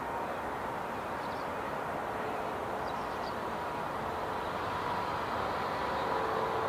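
Jet airliner engines running as a steady rush with a faint whine, growing slightly louder near the end.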